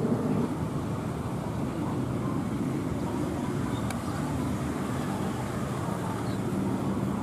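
Steady low rumble of aircraft jet or turboprop engines running, with a faint steady hum.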